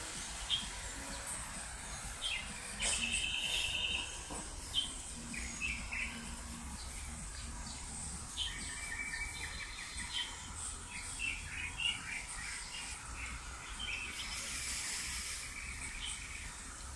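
Birds chirping in the trees, with short rapid trills a few seconds in and again about halfway, over a low steady rumble.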